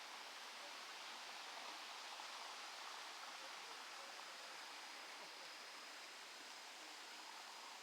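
Faint, steady outdoor background hiss with no distinct events, with a faint steady high tone running through it.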